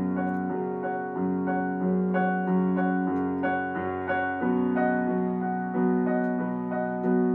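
Instrumental passage of a live song: chords played on a piano-like keyboard, a new chord struck about every two-thirds of a second, with no singing.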